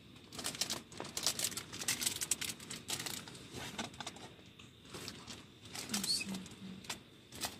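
Irregular patter of short crinkling and rustling noises, in uneven clusters, with a few faint low murmurs near the end.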